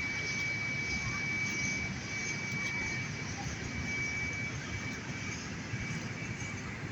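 Fire engine running: a steady engine rumble and hiss, with a thin high steady whine that breaks off now and then.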